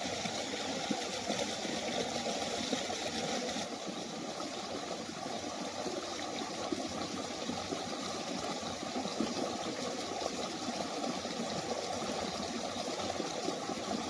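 Water from a small mountain waterfall rushing and splashing in a steady, even wash.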